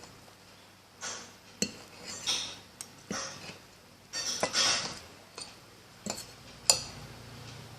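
Cutlery clinking and scraping on a plate: after about a second of quiet, several sharp clinks with short scraping strokes between them.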